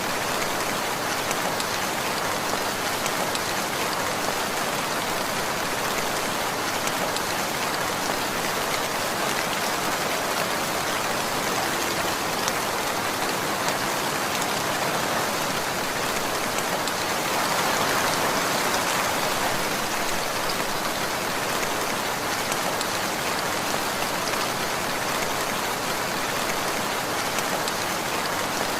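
Steady rainfall, drops pattering on surfaces, with a slight swell about two-thirds of the way through.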